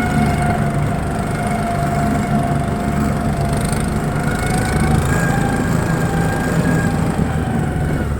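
Motorized snow towing unit's single-cylinder engine running steadily while the machine is under way, with a steady whine sitting above the low engine note.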